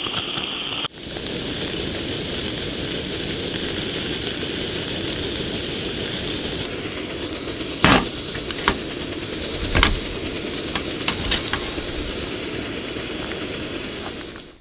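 Campfire cooking: a steady hiss with sharp crackles and pops scattered through it, loudest a little past the middle.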